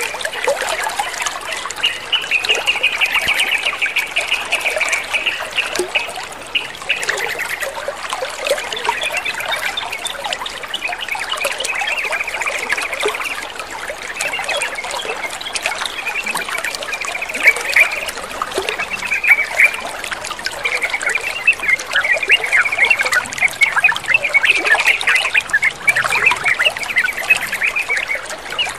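Water trickling and splashing steadily, with a sooty-headed bulbul (trucukan) chattering and calling over it in repeated bursts.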